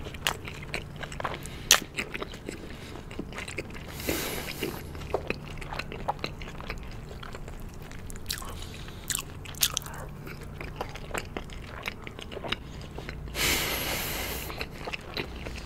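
Close-miked mouth sounds of a person chewing boneless fried chicken in sticky sweet-spicy yangnyeom sauce: a steady run of wet, crunchy clicks and smacks. Two short hissing rushes of noise come about four seconds in and near the end.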